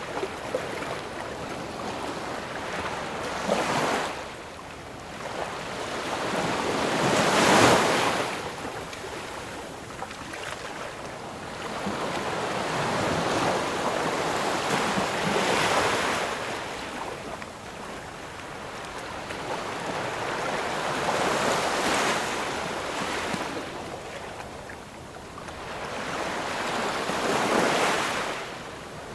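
Sea surf: waves breaking and washing up the shore in slow swells, one every five or six seconds, with a steady hiss between them. The swell about seven seconds in is the loudest.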